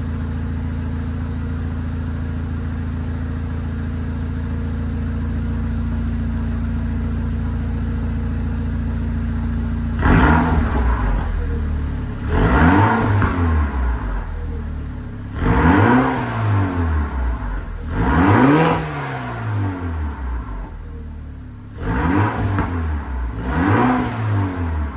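2016 MINI Clubman S turbocharged four-cylinder engine running through a Remus exhaust with its valves fully open. It idles steadily, then from about ten seconds in it is blipped about six times, each rev rising and falling back quickly.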